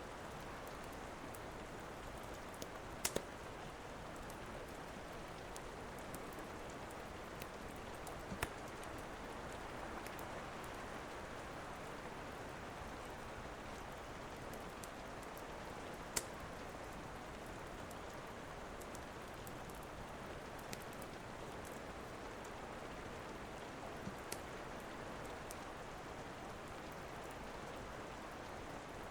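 Steady rain hiss with a wood fire crackling: a few sharp, separate pops now and then, the loudest about halfway through.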